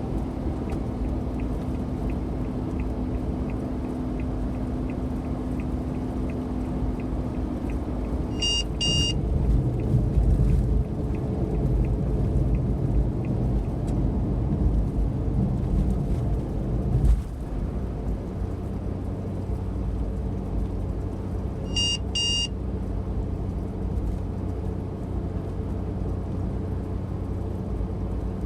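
Inside a Suzuki Every kei van cruising on the expressway: steady engine and road noise. Two short electronic double beeps from an in-car alert unit sound, once about a third of the way through and again about three quarters of the way through, and a single knock comes a little past halfway.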